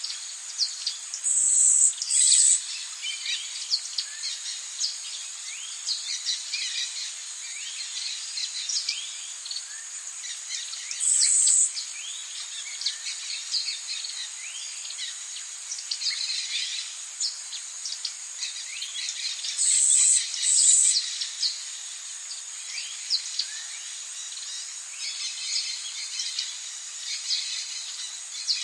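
Tropical chorus of many birds chirping and calling in short, quick notes over a steady high-pitched insect drone. A few loud, brief buzzing bursts stand out, twice in quick pairs, about two seconds in and again about twenty seconds in, with a single one about eleven seconds in.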